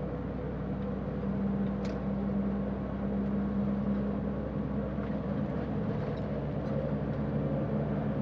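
Diesel engine of a semi tractor-trailer running steadily at highway cruise, heard from inside the cab as a low drone with road noise.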